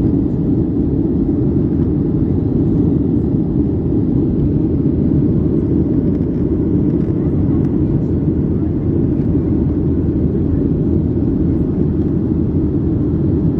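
Boeing 737-900 jet airliner during take-off, its CFM56 engines and airflow making a steady, loud low rumble with no change in pitch or level.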